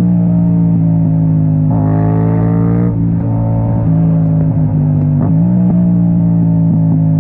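Yamaha MT-07's parallel-twin engine through a very open Akrapovic exhaust, ridden under throttle. The revs climb for about a second near two seconds in and drop with a gear change, with another shift about five seconds in.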